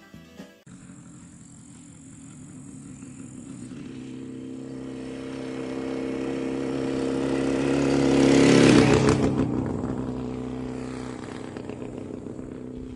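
A motor vehicle's engine running at a steady speed, growing louder as it approaches, loudest about nine seconds in as it passes, then fading away.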